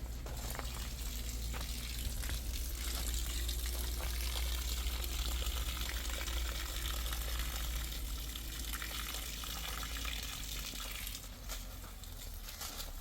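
Water running with a steady rush, easing off slightly near the end, over a low rumble.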